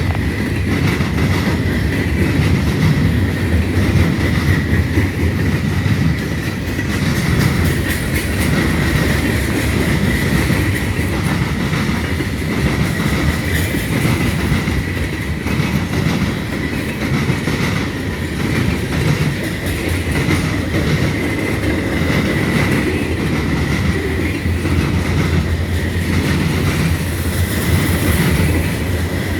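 Freight train rolling slowly past, its wheels clicking over the rail joints in a steady rhythm, with a steady high-pitched wheel squeal running alongside.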